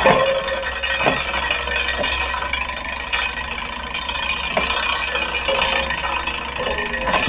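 Giant Momentum Latte bicycle rattling steadily, with a sharper click about once a second.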